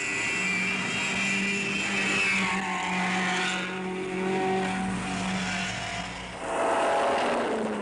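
Rally car engines running at high revs on a mountain hill climb. One engine note falls in pitch over the first couple of seconds as a car goes by, and a louder engine swells up near the end.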